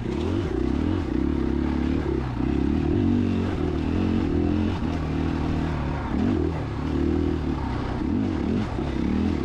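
KTM 500 EXC-F dirt bike's single-cylinder four-stroke engine running under way at fairly low revs, the pitch rising and falling again and again with the throttle as the bike is lugged along a slick trail.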